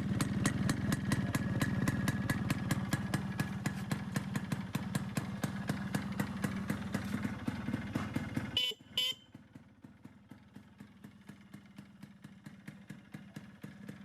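Yamaha RX100's two-stroke single-cylinder engine idling with an even pulse. A little over halfway through, the sound drops off sharply with two short sharp sounds, and the running goes on more faintly after that.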